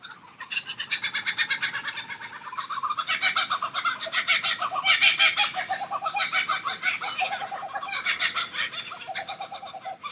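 Birds chattering in fast, rapidly repeated calls, several voices overlapping, loudest around the middle.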